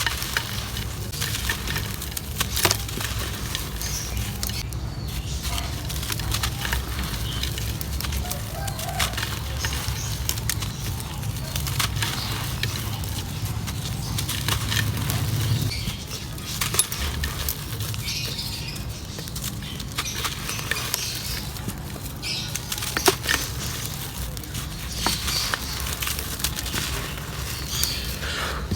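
Dry clay crumbling and crushing in a clay pot: a dense, irregular run of crisp crackles and rustles over a low rumble, which eases a little about halfway through.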